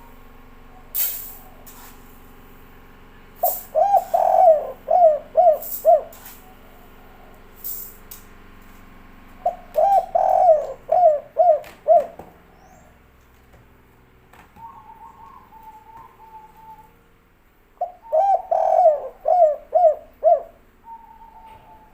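Spotted dove (tekukur) cooing in the 'kuk 3' song style: three song phrases, each a quick run of five or six coos.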